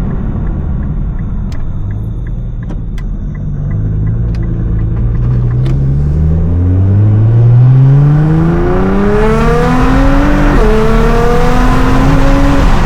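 Nissan R35 GT-R's twin-turbo 3.8-litre V6, tuned to 750 hp, pulling hard: after a low steady cruise with a light ticking about three times a second, the engine note climbs steadily from about four seconds in. Near the end a quick upshift drops the pitch, and it climbs again.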